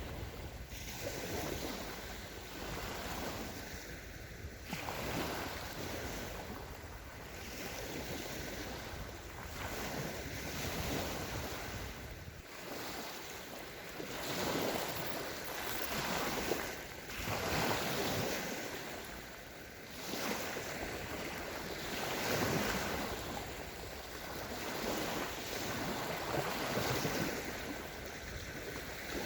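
Small sea waves breaking and washing up on a sandy beach, swelling and fading every two to three seconds, with some wind on the microphone.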